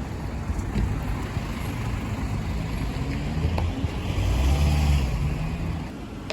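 Diesel bus engine running as a bus moves past, growing louder to a peak about four seconds in, then falling away quickly near the end.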